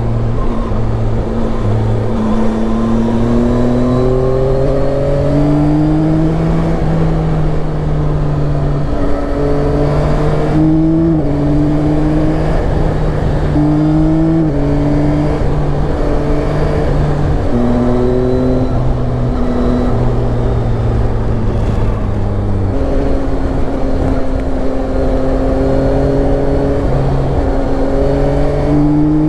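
Yamaha Tracer 9's three-cylinder engine running under way, its revs climbing and falling and stepping with gear changes several times, over a steady rush of wind noise.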